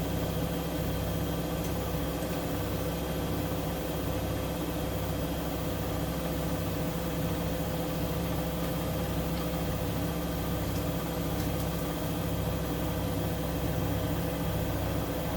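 Siemens Siwamat IQ 716 washing machine running: a steady motor hum with several fixed tones and a low, regular throb that repeats about every half second or so.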